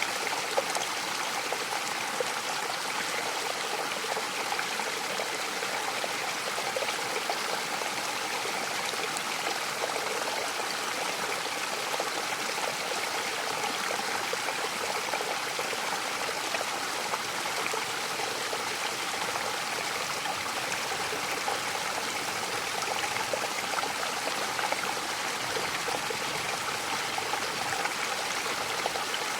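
Mountain waterfall: a steady rush of falling and splashing water with a fine trickling texture, even in level throughout.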